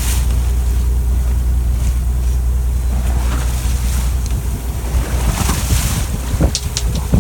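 Fishing boat's engine running with a steady low rumble, under wind and water noise. A few sharp clicks about six and a half seconds in.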